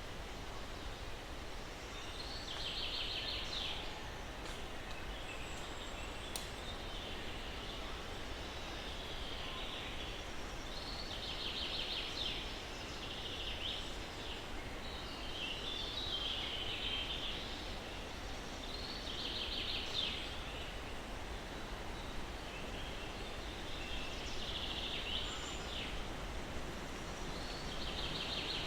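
Birds singing over a steady soft breeze in pine trees: short trilled phrases repeat every few seconds.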